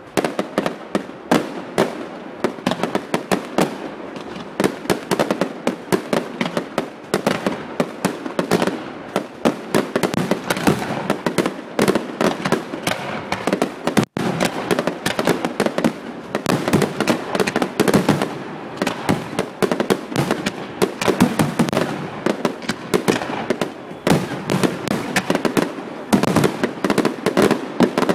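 Fireworks display: a dense, continuous barrage of bangs and crackles, many reports a second.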